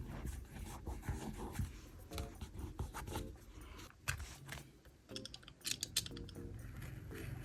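Desk journaling and stationery handling: a run of light clicks, taps and paper scratches, with a quick flurry of sharp clicks about five and a half seconds in.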